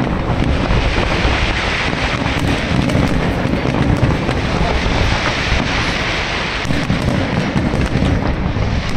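Fireworks display in full barrage: shells bursting overhead in quick succession, with many sharp cracks over a continuous rumble.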